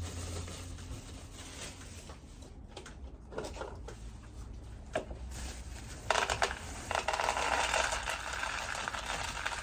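Dried peas being poured into a tub: a dense rattle of many small hard seeds that starts suddenly about six seconds in and lasts about three seconds, after a few light handling clicks.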